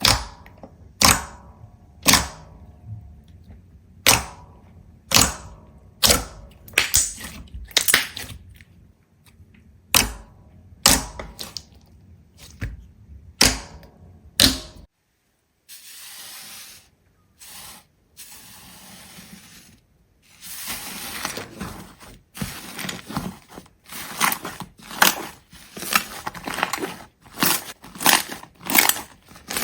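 A series of sharp cracks or snaps, about one to two a second, each ringing briefly. About halfway through it breaks off and is followed by a hissy stretch with quicker crackling strokes.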